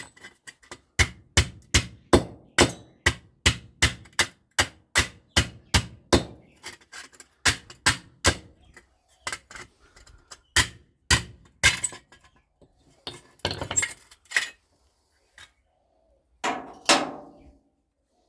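Hammer blows on metal, likely a microwave oven transformer being knocked apart to get at its copper windings. A fast, even run of nearly three strikes a second for about six seconds, then slower, uneven blows.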